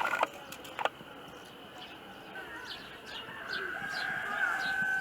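Rooster crowing: one long held call that begins about three and a half seconds in. Small birds chirp in short falling notes around it, and two sharp knocks come in the first second.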